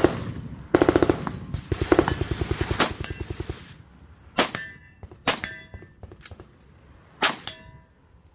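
Firearms on a shooting range: two strings of rapid fire about a second in, then separate single shots about a second apart. Several shots are followed by a brief metallic ring.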